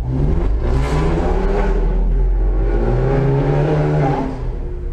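Car engine revving hard, its pitch climbing, dipping and climbing again, holding, then dropping a little after four seconds in, as the car is driven hard through a course.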